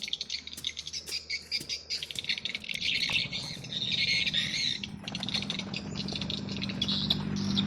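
Birds chirping and squawking in rapid, dense calls, with a low steady hum that grows louder from about five seconds in.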